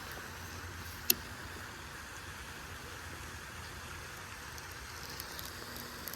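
Steady hiss of rain falling on water, with one sharp click about a second in.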